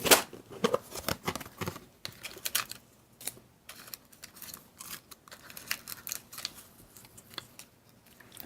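Irregular small clicks, taps and snips of hands working at a craft table, handling self-adhesive Velcro dots, paper and scissors.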